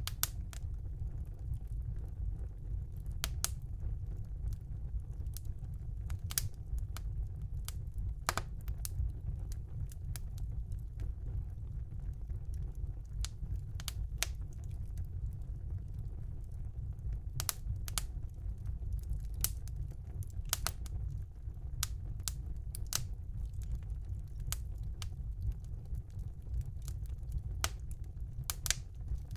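Fire burning in a fireplace: a steady low rumble with irregular sharp crackles and pops about once a second, bunching into quick clusters now and then.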